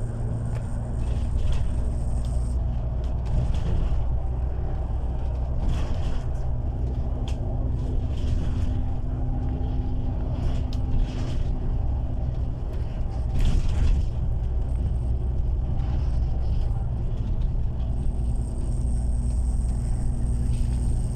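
Bus running, heard from inside: a steady low engine drone with road rumble and scattered knocks and rattles.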